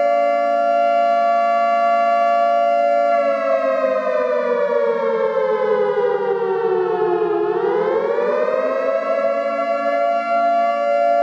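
Nuclear alarm siren sounding loudly as several pitches together. It holds steady, falls slowly in pitch a few seconds in, bottoms out about seven seconds in, then climbs back quickly and holds steady again.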